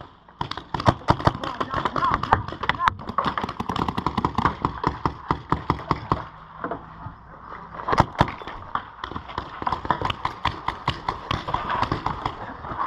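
Paintball markers firing in rapid volleys of sharp pops, several a second, easing off briefly about halfway through before picking up again with one strong pop.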